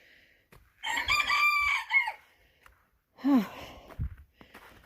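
A rooster crows once, the crow lasting about a second and a half, followed a second later by a short call that falls in pitch.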